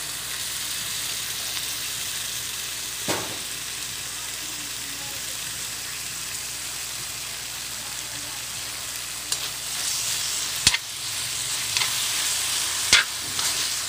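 Stir fry of carrots, bell pepper and chorizo sizzling in a hot metal wok, a steady frying hiss as oyster sauce cooks on the hot metal. From about nine seconds in, a metal spatula clacks and scrapes against the wok several times as the food is stirred.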